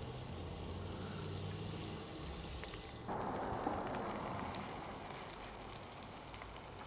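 Butter and oil sizzling in a hot cast iron skillet; about three seconds in, the sound changes abruptly to a breaded chicken cutlet pan-frying in the oil.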